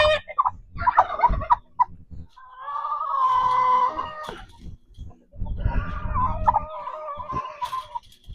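Chickens clucking, followed by two long, drawn-out hen calls about two and three-quarter seconds apart.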